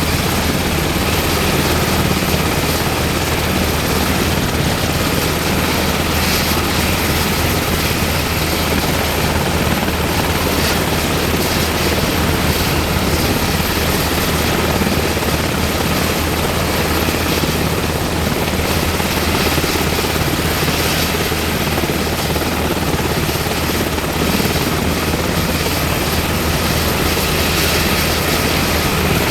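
UH-60M Black Hawk helicopter running with its twin turboshaft engines and rotors turning, a steady loud rotor and turbine noise with a thin high whine that holds unchanged throughout.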